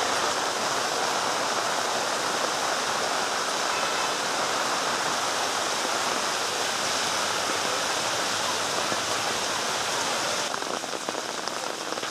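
Heavy rain falling: a steady hiss of rain that changes slightly about ten seconds in.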